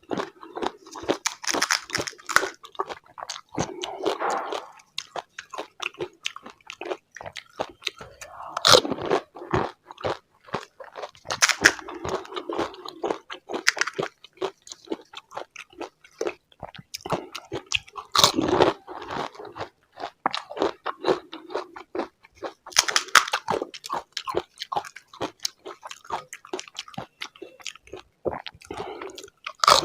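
Close-miked eating of pani puri: the crisp, hollow puri shells crack as they are bitten, followed by wet chewing, in repeated bouts every few seconds.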